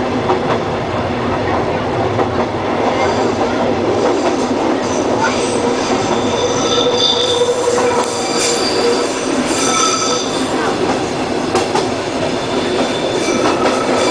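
Odontotos rack-railway train running along its narrow-gauge track, heard from the cab: a steady rumble of running noise. From about three seconds in, high squealing tones come and go over it, strongest in the middle and again near the end, as the wheels squeal on the curves.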